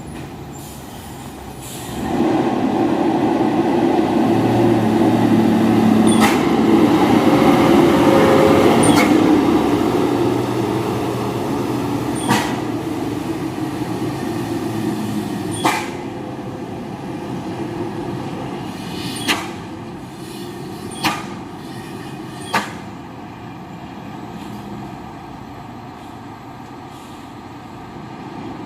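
Heavy dump trucks' diesel engines running as they pass, the rumble building about two seconds in and then easing off. Sharp bangs come several times along the way.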